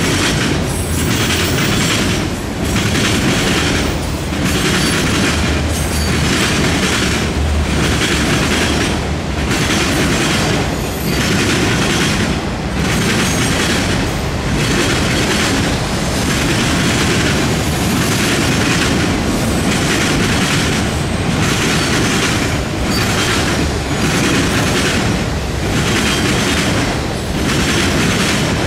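Autorack freight cars of a freight train rolling past on steel wheels, loud and steady. The sound dips briefly about every second and a half to two seconds as each car goes by.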